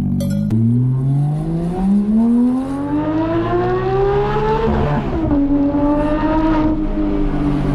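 Porsche 911 GT3's naturally aspirated flat-six pulling hard through a gear, its revs climbing steadily for about four seconds. About five seconds in the pitch drops sharply, then holds nearly steady.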